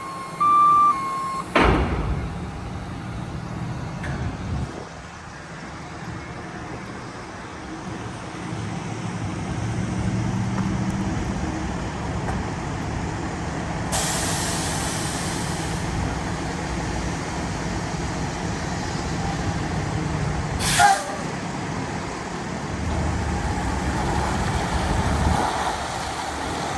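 Freightliner M2 106 garbage truck's diesel engine running steadily. A hiss of air lasts about two seconds in the middle, and a short sharp burst of air comes about 21 seconds in.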